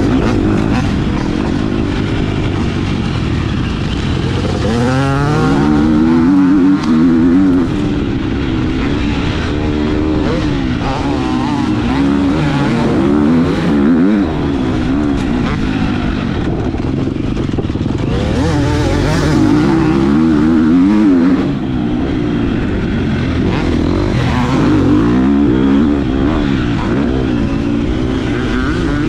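Motocross bike engines racing, revving hard up and down in pitch over and over as they accelerate and shift through the gears.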